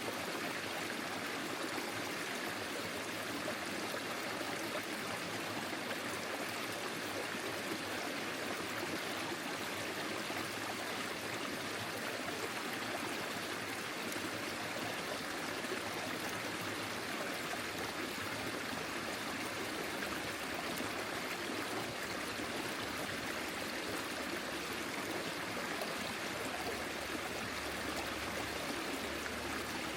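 Forest stream flowing steadily over stones, an even rushing and trickling of water.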